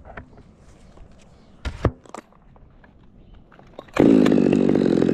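A few faint knocks and two sharper knocks, then about four seconds in a chainsaw suddenly comes up to full throttle and runs steadily as the climber starts cutting the top out of a dead fir.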